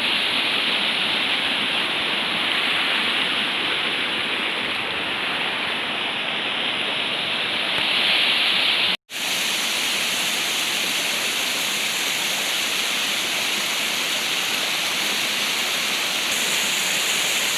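Waterfall rushing steadily, a dense even roar of falling water. About halfway through it cuts out for a split second, then resumes much the same.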